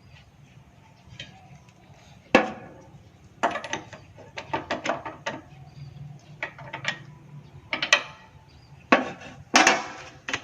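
Hand tools clicking and knocking against the parts of a small engine in irregular clusters of sharp knocks, the loudest near the end, over a low steady hum.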